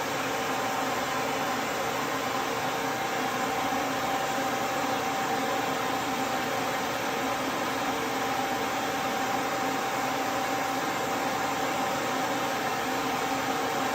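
Duz V3 pet dryer running steadily, an even rush of blown air with a faint steady whine from its motor.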